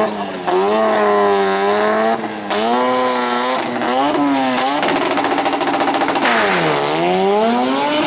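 Big-turbo rotary engine of a drag-racing Mazda RX-7 running hard and revving, its pitch bending up and down with brief breaks about half a second and two seconds in. A stretch of rapid crackling pulses follows about five seconds in, then the revs dip and climb again.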